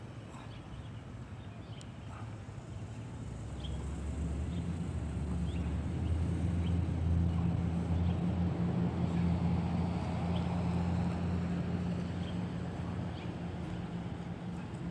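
Low engine rumble that builds from about four seconds in and slowly fades toward the end, with faint scattered ticks above it.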